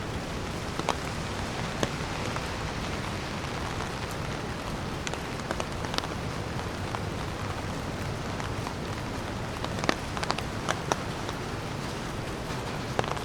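Steady rain hissing, with scattered close drops ticking sharply, a quick run of them about ten seconds in.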